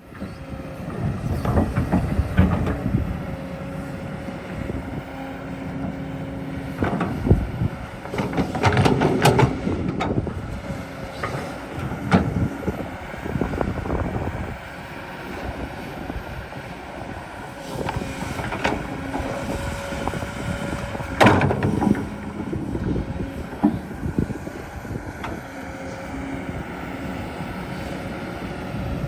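Excavator at work: a steady engine or motor hum with a constant whine, broken by irregular clanks and scraping from digging.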